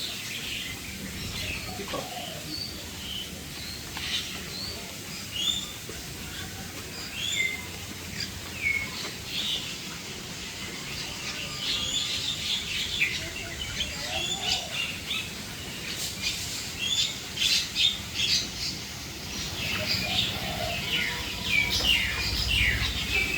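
Several birds chirping and whistling: many short notes, some of them falling whistles, growing busier and denser from about halfway through and again near the end.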